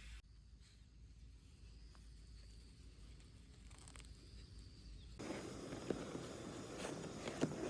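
A faint low hum with a few weak ticks, then about five seconds in, firewood burning in a campfire: a steady hiss with sharp crackles and pops.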